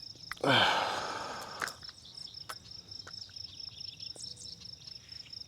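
Crickets trilling steadily in a fast, even pulse. A short, louder rustle comes about half a second in, and a few light clicks follow.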